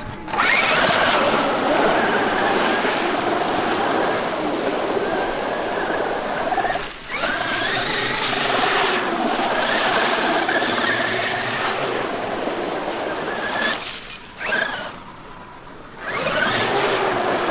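Traxxas X-Maxx electric RC monster truck's motor and drivetrain whining as it drives, the pitch rising and wavering with throttle. It drops out briefly about halfway through and again for a couple of seconds near the end.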